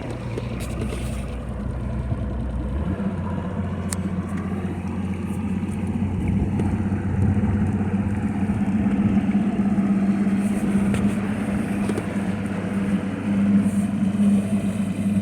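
Mercury Optimax 200 outboard, a direct-injection two-stroke V6, running steady on a bass boat and getting gradually louder as the boat gets under way. It is running on fresh NGK iridium plugs and a replaced VST filter.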